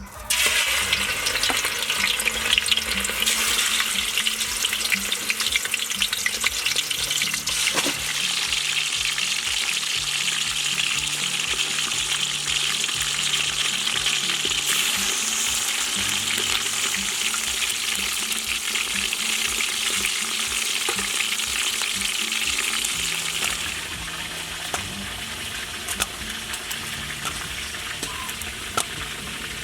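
Food frying in hot oil, a dense steady sizzle that starts suddenly as it goes into the pan, with occasional clicks of stirring. The sizzle eases off somewhat near the end.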